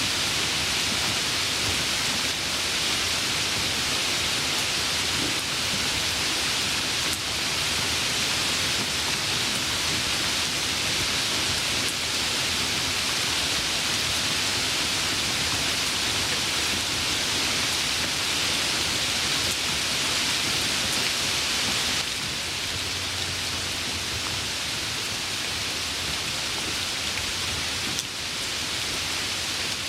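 Steady rain falling, a dense even hiss that eases slightly about two-thirds of the way through.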